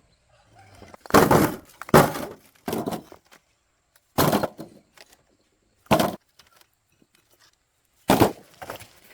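A series of six heavy knocks or cracking blows at irregular gaps of one to two seconds, each fading quickly.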